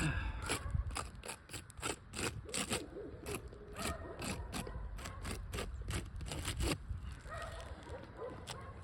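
Irregular scratchy strokes of a marker being rubbed across the gritty surface of an asphalt shingle, writing a label on it, thinning out near the end.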